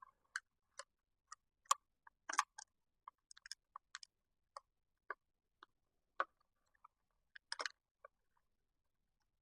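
Scattered small clicks and taps at an irregular pace from working a screw and screwdriver into a miter saw's dust chute, with a slightly louder cluster a little after two seconds and another near eight seconds.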